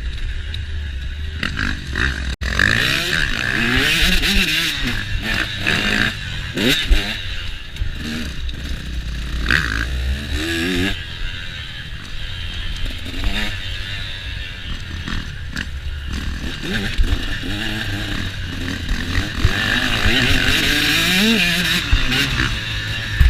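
KTM motocross dirt bike engine revving up and down repeatedly while riding, the pitch climbing and dropping again and again through the throttle and gear changes, over heavy rushing noise on the mounted camera.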